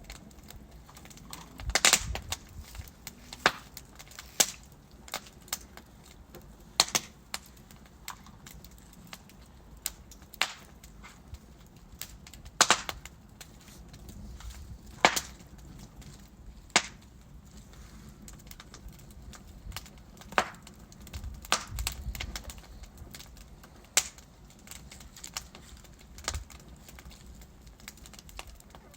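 Wood fire in a fireplace crackling: a low steady hiss of burning logs with sharp, irregular pops and snaps, a few much louder than the rest.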